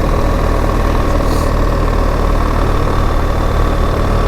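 BMW R 1300 GS's boxer-twin engine running steadily at an even, unchanging pitch.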